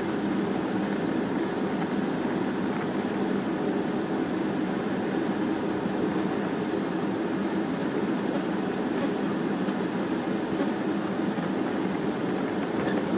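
Steady hum inside a car's cabin from its engine running, even and unchanging throughout.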